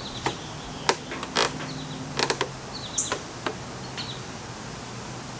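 Small birds calling in short runs of quick, high, falling notes, mixed with several sharp clicks and taps, over a faint low steady hum.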